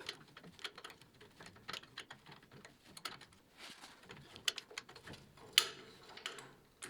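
Light, irregular metal clicks and clinks of hand tools working on the bolts of a VW Beetle's transmission mounting, with one sharper clink about five and a half seconds in.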